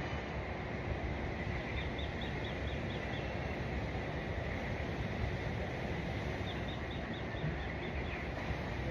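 A bird calling a quick run of about six short, high chirps, twice, over a steady low rumble of outdoor background noise.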